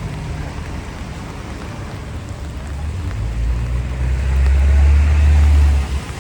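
Rainy city street traffic: a steady hiss of wet tyres and rain, with a deep rumble from heavy traffic that swells over a few seconds and stops abruptly near the end.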